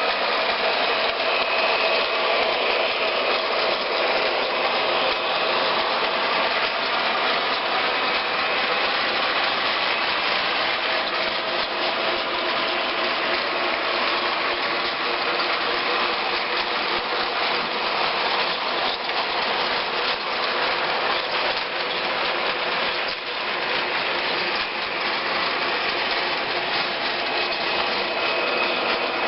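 A train running, a steady mechanical running and rolling noise with a faint hum, dipping briefly about three-quarters of the way through.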